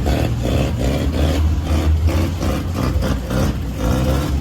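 A car's loud, deep rumble, strong in the low end with a regular pulsing.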